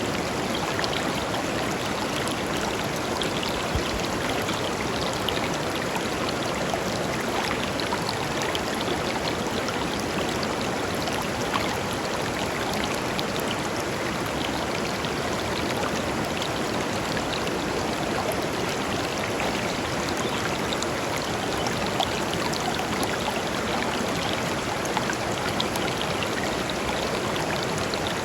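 Small river or stream flowing steadily over stones, a constant rushing and splashing with little bubbling flecks throughout.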